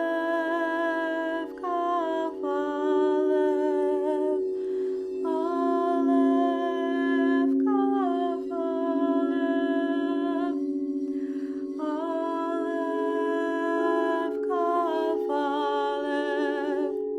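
A woman's voice humming wordless long held notes that step and glide between pitches, in phrases a few seconds long, over the steady ringing drone of singing bowls.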